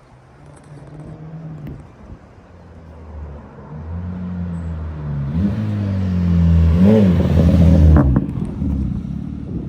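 2012 Honda Civic 1.8-litre four-cylinder engine and exhaust, growing steadily louder with two brief rises in pitch, then dropping away sharply about eight seconds in.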